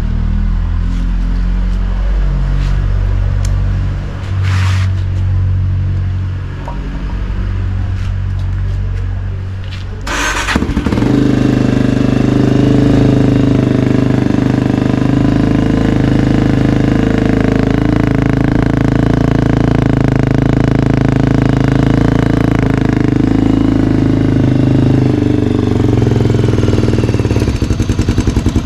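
Honda XR250 Baja's single-cylinder four-stroke engine running, a steady low idle at first. About ten seconds in there is a short sharp noise, then it runs louder and faster for most of the rest, as in the warm-up after a cold start. Near the end it settles to a slow, even idle with distinct beats.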